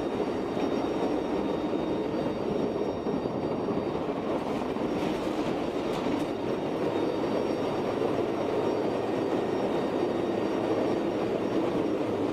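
Steady roar inside the cargo hold of a C-130 Hercules in flight: the drone of its four turboprop engines mixed with air noise, holding even throughout.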